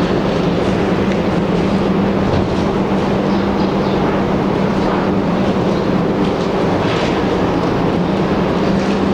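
Steady, loud machine-like rumble with a constant low hum, unbroken throughout.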